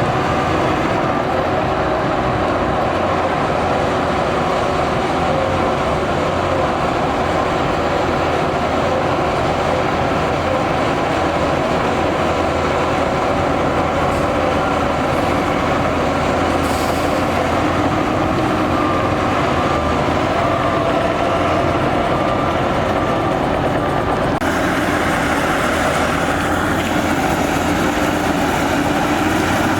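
Heavy diesel earthmoving machinery running steadily under load, with a harsher, brighter noise joining about five seconds before the end.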